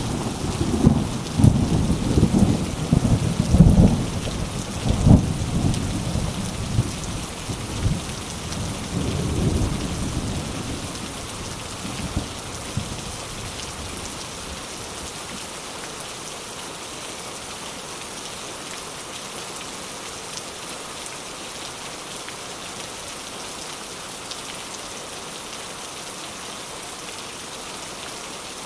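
Steady heavy rain with thunder rumbling and cracking for the first ten seconds or so, the thunder dying away and leaving the rain alone.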